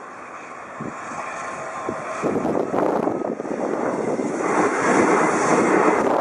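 Double-deck electric regional train passing close by. The rushing of its wheels on the rails grows steadily louder and is at its loudest in the last couple of seconds as the train goes past.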